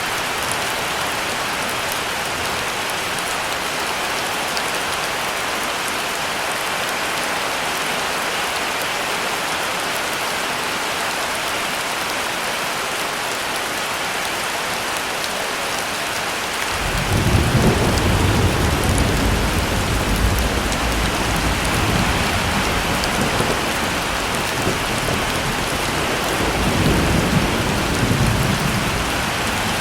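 Heavy rain falling steadily, with a long rumble of thunder that breaks in just past halfway and swells again near the end.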